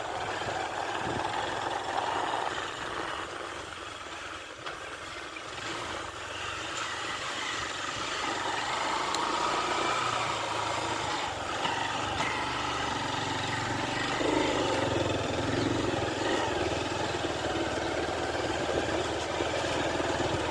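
Motorcycle engine running while riding, growing louder about halfway through.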